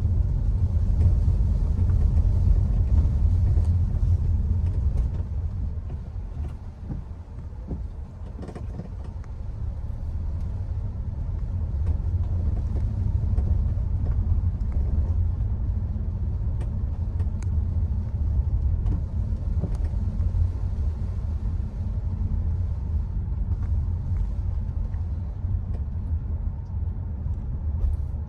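Steady low road and drivetrain rumble of a Hyundai Creta on the move. It eases off for a few seconds about six seconds in, then builds back up.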